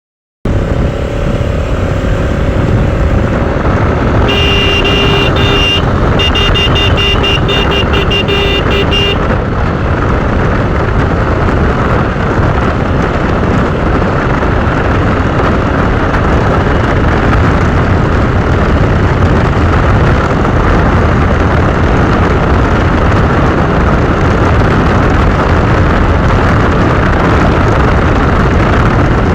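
Loud steady rush of wind and road noise on a moving motorcycle. About four seconds in, a vehicle horn sounds one held blast, then a run of rapid toots that stops about nine seconds in.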